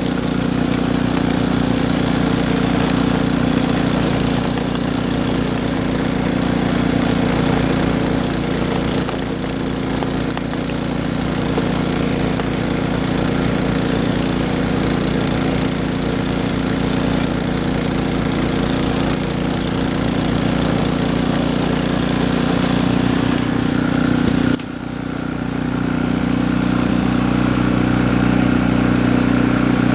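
Snowblower engine running steadily. Near the end its sound drops suddenly, then builds back up over a couple of seconds.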